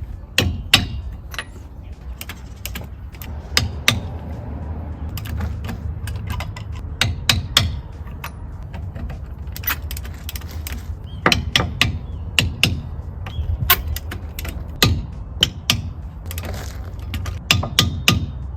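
Hand tools being worked on metal: a ratchet wrench clicking, with irregular sharp clinks and knocks in clusters, over a low steady hum.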